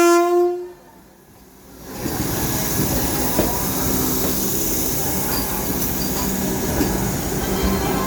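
Vande Bharat Express electric trainset: a short horn blast ends under a second in. After a brief lull, from about two seconds in, the departing train runs past with a loud, steady rumble of wheels and running gear.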